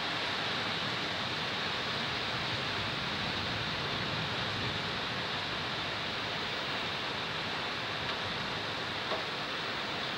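Steady rain falling, an even hiss with no thunder, with one small tick about nine seconds in.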